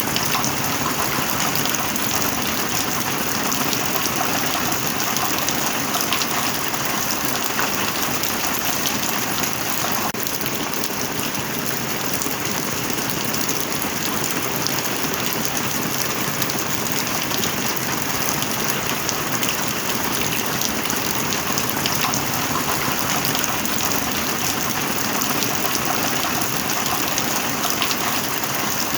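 Heavy rain falling steadily: an even hiss with dense patter of drops, unbroken throughout.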